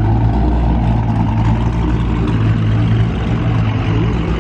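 Pontiac G8 GT's V8 engine running at low revs as the car rolls by, a steady deep exhaust rumble.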